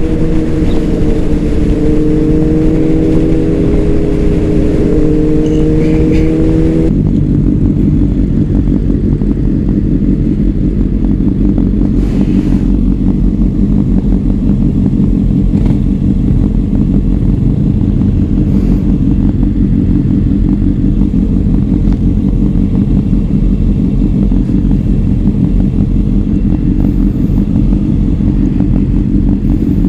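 Honda CBR600RR's inline-four engine running loud and steady through a Leo Vince exhaust, heard onboard while riding. The tone changes suddenly about seven seconds in.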